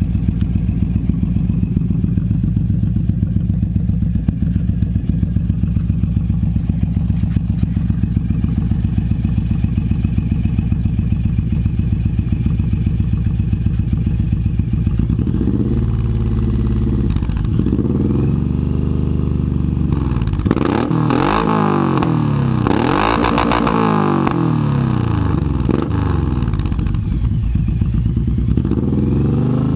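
2008 Suzuki C109R's V-twin engine through an aftermarket G-Pipe exhaust, idling steadily, then revved in a series of quick throttle blips from about halfway, each rising and falling, before it drops back to idle near the end.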